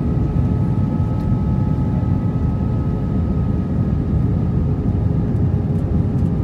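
Steady in-flight cabin noise of an Airbus A320-232: a constant low rush of airflow and engine noise with a steady hum of several fixed tones over it.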